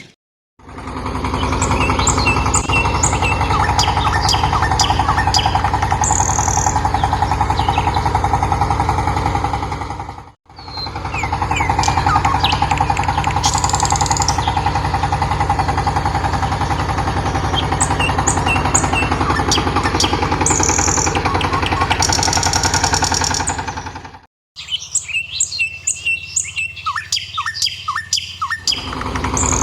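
A motor running steadily with a fast low pulsing hum while small birds chirp. The sound drops out twice to silence, and for a few seconds near the end the motor stops and only birdsong is heard.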